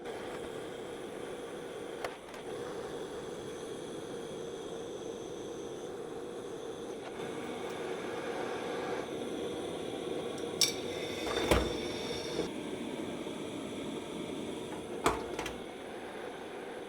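Steady hiss with a hum from a gas torch heating small chromoly steel screws for hardening, broken by a few light metallic clinks, the loudest a little past the middle.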